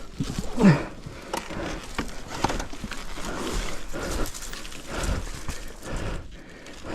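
Heavy, uneven breathing of a tired person, with a short groan falling in pitch about half a second in.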